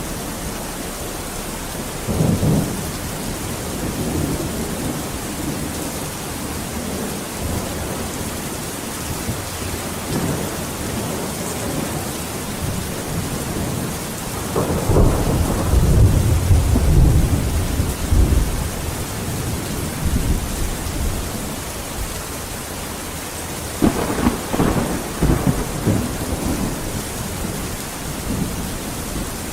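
Steady heavy rain falling, with thunder rumbling: a short rumble about two seconds in, a longer, louder rumble in the middle, and another near the end.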